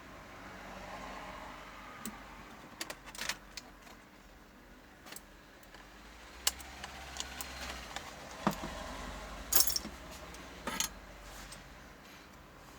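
Light metallic clicks and clinks of small hand tools and parts being handled on an electronics workbench, scattered irregularly, over a faint steady low hum.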